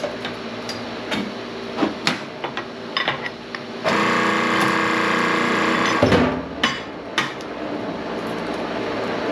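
Scrap metal clanking and knocking, then about two seconds of a hydraulic press under load, running with a steady whine that stops with a clunk, followed by a few more sharp metal knocks.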